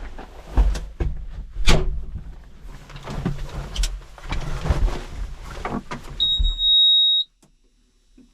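A series of clunks and knocks over a low rumble, then a single steady high-pitched electronic beep lasting about a second that cuts off abruptly.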